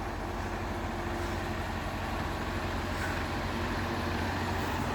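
A motor vehicle's engine running steadily, a low even hum with street noise around it.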